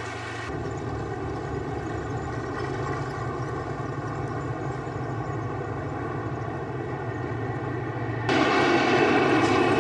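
Aircraft engine noise overhead: a steady drone that grows suddenly louder and brighter about eight seconds in as the aircraft comes closer.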